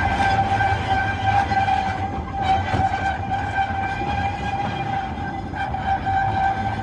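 Narrow-gauge train heard from its carriage, hauled by a Hunslet 50hp 0-4-0 diesel locomotive: a steady low rumble of engine and wheels on the rails, with a constant high whine over it.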